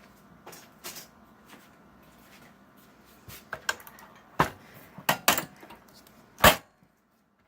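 Scattered clicks and knocks of hard computer parts being handled in a desktop PC case, a few sharp knocks in the second half, the loudest about six and a half seconds in.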